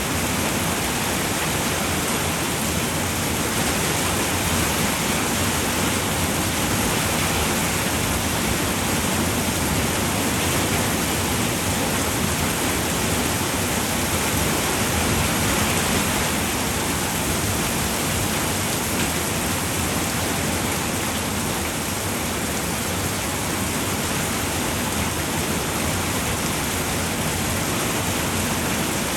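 Steady rain falling on a roof, a constant even hiss with no breaks or changes.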